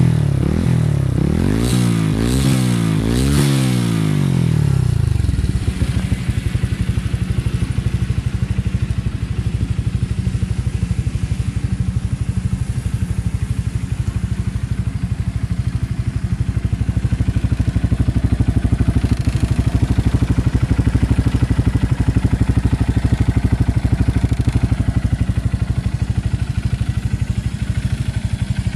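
Honda CBF125's single-cylinder four-stroke engine running through an aftermarket performance exhaust. It is revved in several quick blips over the first five seconds or so, then settles to a steady idle.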